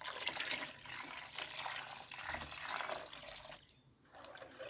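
Boiled cow's milk being poured into a pot of canjica (sweet corn pudding): a steady liquid pour that stops about three and a half seconds in.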